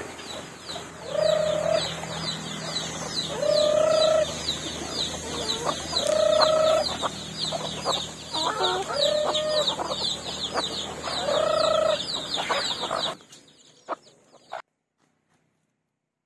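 Chickens calling, a short call every two to three seconds, over a fast, even high-pitched chirping. The sound cuts off about thirteen seconds in.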